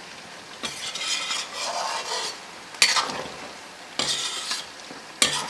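Chicken pieces sizzling as they fry in hot oil in a large kadai, being stirred with a metal ladle that scrapes the pan in a few stretches and knocks against it sharply twice, about three seconds in and near the end.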